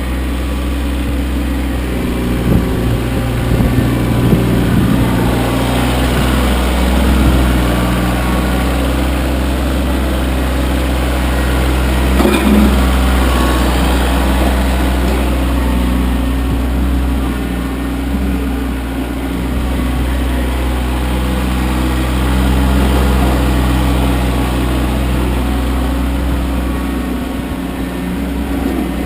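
Kioti CK25 compact tractor's three-cylinder diesel engine running steadily while plowing snow, its pitch shifting a few times. A brief knock sounds about twelve seconds in.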